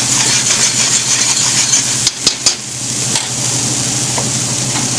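Chopped onions and celery sizzling in oil in a stainless steel pot while being stirred, over a steady low hum. A few sharp knocks of the stirring utensil against the pot come about two seconds in, with one more a second later.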